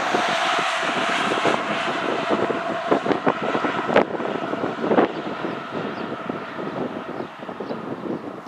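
A road vehicle passes close by with a rush of tyre and engine noise that slowly fades, and wind knocks on the microphone.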